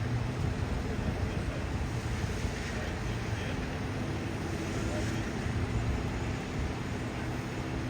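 Wind buffeting the microphone over a steady low rumble of vehicles, with a faint steady hum.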